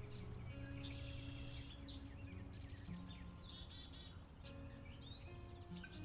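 Songbirds singing high, thin chirps and quick trills over soft background music with sustained low notes.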